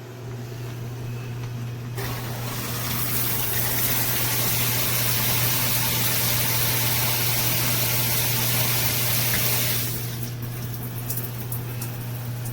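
Shower spraying water, a steady rushing hiss that starts about two seconds in and stops near the end, over a constant low hum.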